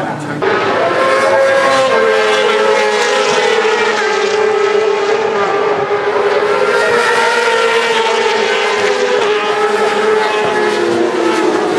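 Several superbike engines running together at high revs, their overlapping tones holding and slowly drifting, loud from about half a second in.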